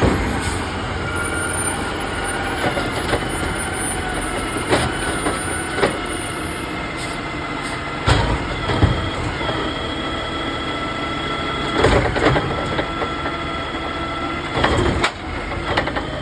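Garbage truck engine running with a steady whine over it, broken by a series of sharp metal clanks and bangs, about eight of them, some in quick pairs.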